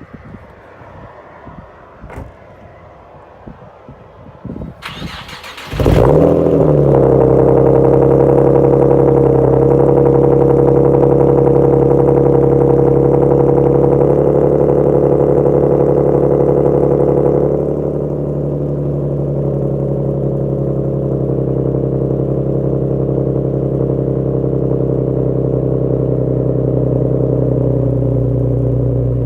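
A few faint clicks, then the starter cranks about five seconds in and the Nissan 370Z's 3.7 L VQ V6 catches with a brief flare on a cold start. It settles into a high, steady cold idle through straight-piped exhaust (non-resonated test pipes, H-pipe, no mufflers), and drops to a lower, quieter idle about halfway through.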